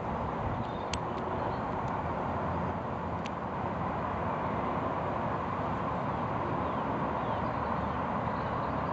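Steady outdoor background noise, an even rumble and hiss with no clear event, with two faint short clicks about one and three seconds in.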